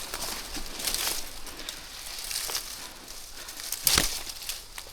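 Dry leaves and brush crunching and rustling in irregular crackles underfoot and by hand, with a louder crunch about four seconds in.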